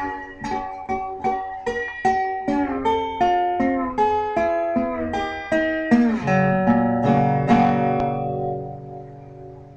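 Background music: a plucked guitar picking a run of notes, ending on a low chord that rings out and fades away.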